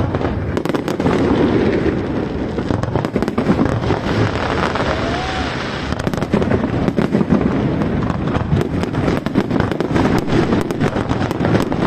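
Fireworks going off without pause: a dense rumble of booms with many sharp crackles and pops, thicker in the second half.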